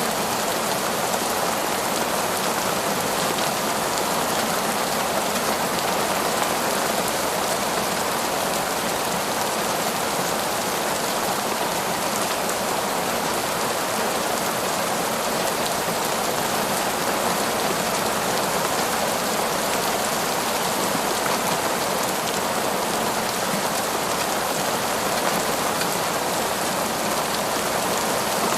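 Heavy, torrential rain falling steadily through forest trees, a dense even hiss with no let-up.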